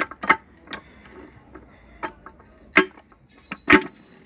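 Irregular sharp metallic clinks and knocks, about five loud ones and several lighter ones, some briefly ringing, as steel truck gearbox parts are handled and knocked together.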